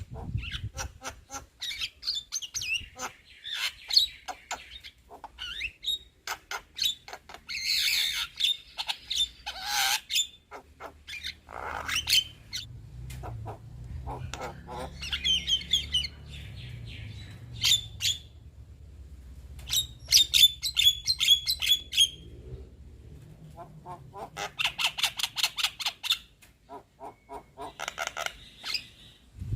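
Young Javan myna (jalak kebo) chattering: bursts of rapid clicking, rattling notes and harsh squawks, with short pauses between them.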